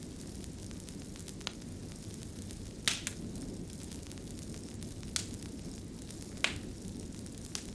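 Wood fire burning with a steady low rustle, broken by a few sharp crackles and pops, the loudest about three seconds in.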